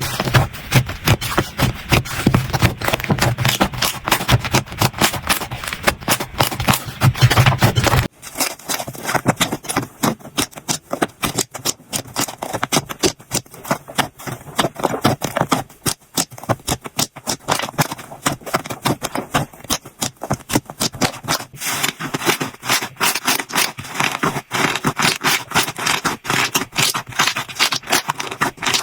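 Slime being squeezed and poked, giving a dense run of sticky popping and crackling clicks. About eight seconds in, a low rumble under the clicks stops and the clicks turn lighter and sparser.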